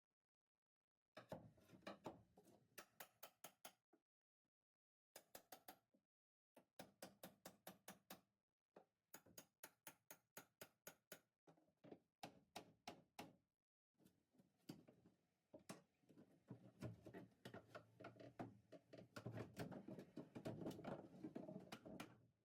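Faint, quick runs of knocks and taps from hand-tool work dismantling a boat's dashboard, broken by a few abrupt silent gaps.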